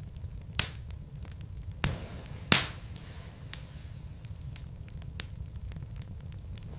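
Wood fire crackling in a fireplace: scattered sharp pops over the low, steady rumble of the burning logs. The loudest pop comes about two and a half seconds in.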